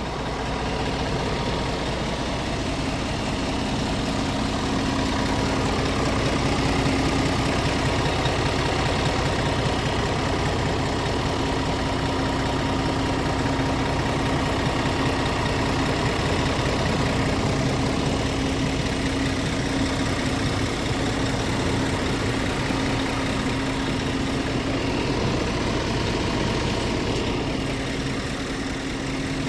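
Scania R450 truck's 13-litre inline-six diesel engine idling steadily.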